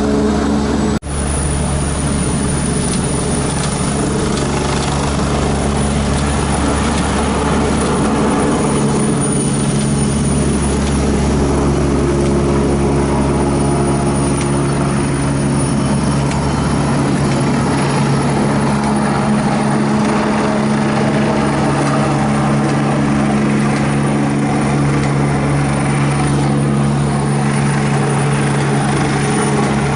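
Agusta Westland AW119 helicopter running close by, its turboshaft engine and rotor giving a steady loud drone with a constant high-pitched turbine whine. The sound drops out for an instant about a second in, then carries on unchanged.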